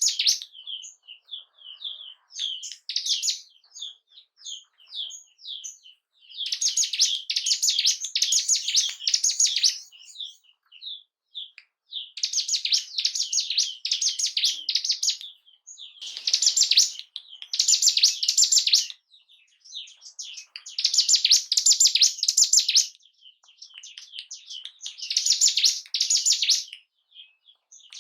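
Ciblek gunung singing: phrases of rapid, high, repeated notes lasting a few seconds each, about five of them, with scattered single chirps between. This is lure song of the kind played to caged ciblek gunung to rouse them into singing.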